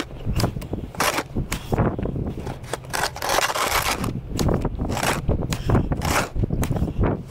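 Snow crunching and scraping in quick, irregular strokes, with a longer scrape about halfway through.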